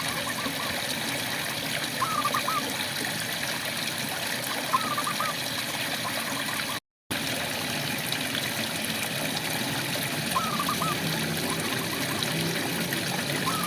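Steady rainfall hiss with a frog calling at intervals: short groups of three or four quick rising notes every couple of seconds, with a longer pause in the middle. The sound cuts out completely for a moment about seven seconds in.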